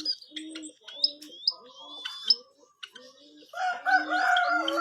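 Birds calling: a white-headed munia's high, quick rising chirps and whistles over a low note repeated about twice a second. About three and a half seconds in, a louder, lower drawn-out call with several tones starts.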